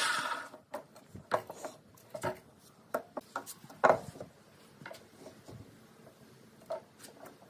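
A power tool stops and runs down, then scattered light knocks and clicks of wood pieces being handled and set down.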